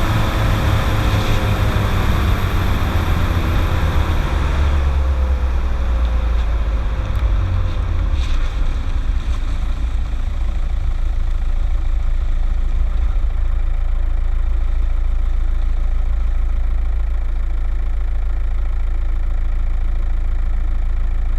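Skoda Octavia 1.9 TDI's four-cylinder turbodiesel engine winding down, its pitch falling while road noise fades over the first few seconds, then idling steadily.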